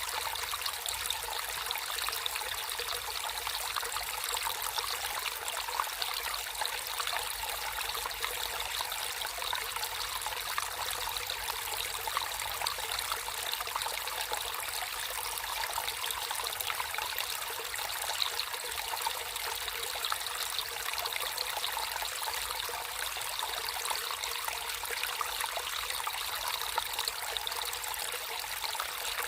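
Water flowing and trickling steadily in a natural stream, a constant splashing hiss with no pauses.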